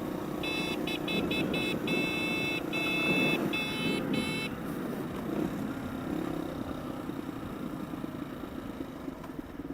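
Motorcycle engine running steadily while riding, with rushing wind, easing off over the last few seconds. Over the first four seconds a series of about ten short high beeps sounds, some clipped and some held longer.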